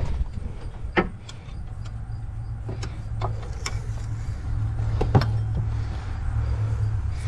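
A steady low mechanical hum with about five sharp clinks or knocks scattered through it.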